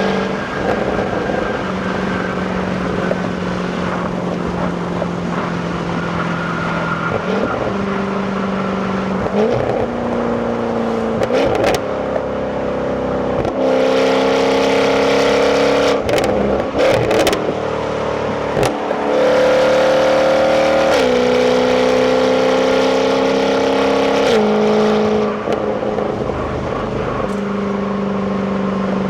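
Jaguar F-Type 5.0 supercharged V8 on its stock exhaust, driving through the gears. The engine note climbs with the revs and drops back at each shift several times, with a few short sharp cracks in the middle.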